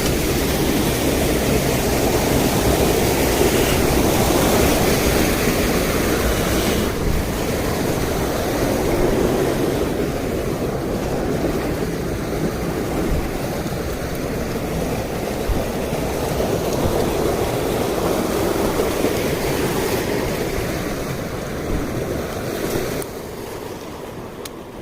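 Mountain stream rushing over rocks, a steady wash of water, dropping suddenly in level near the end.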